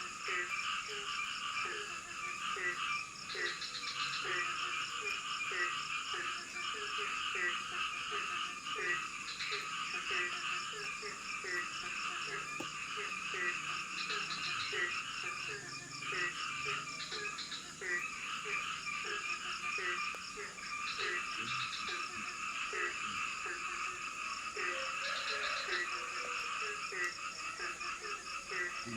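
A dense chorus of frogs calling in tropical forest: many overlapping short calls repeat a couple of times a second without pause, over a steady high-pitched drone.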